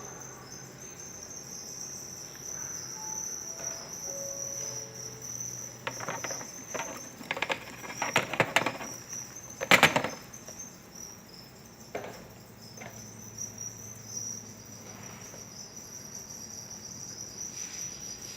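Crickets chirping steadily in a high, continuous trill. From about six to ten seconds in comes a run of sharp clicks and rustling knocks, the loudest a single knock just before ten seconds.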